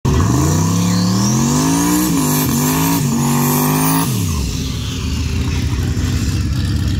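Turbocharged LS V8 of a Ford Fairmont wagon revving hard through a drag-strip burnout, the rear tyres spinning and smoking: the engine pitch climbs for about two seconds and holds high with a few brief dips, a thin whine rising above it. About four seconds in the revs drop sharply to a lumpy, low run as the car rolls forward.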